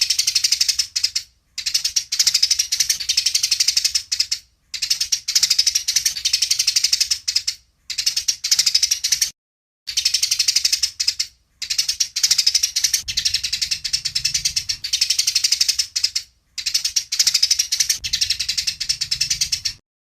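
Eurasian tree sparrows giving rapid, dense, chattering chirps in their agitated fighting call. The calls come in about seven bursts of one to five seconds each, split by brief silent gaps.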